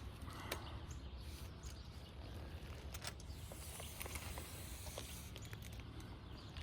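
Outdoor background noise: a steady low rumble with a few faint, scattered clicks.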